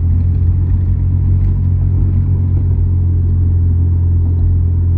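Car engine and road noise, a steady low drone that does not change.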